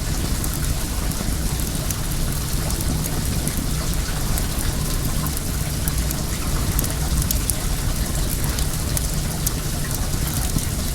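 Wood fire crackling with many small sharp pops over the steady rush of well water flowing.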